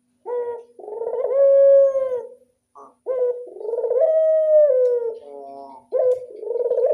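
Barbary dove (burung puter) giving its bow-coo call, the classic 'anggungan': three phrases about three seconds apart, each a short note followed by a long, drawn-out coo.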